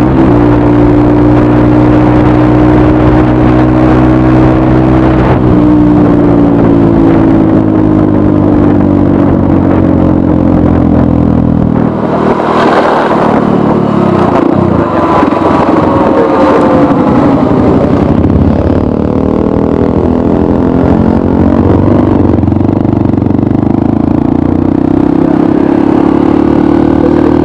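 Honda CRF 150L's single-cylinder engine running through an aftermarket Norifumi RV1 N4 exhaust while riding, its pitch rising and falling with the throttle. About halfway through the sound turns rougher for a few seconds, with gliding pitch, before settling back to a steady run.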